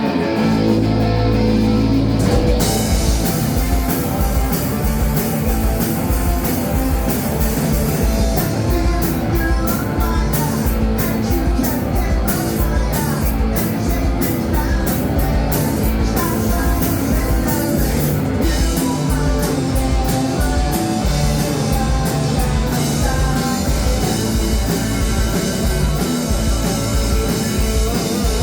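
Indie rock band playing live, with electric guitar, bass and drum kit. A held low note opens, then the drums and cymbals come in with a steady beat about two and a half seconds in.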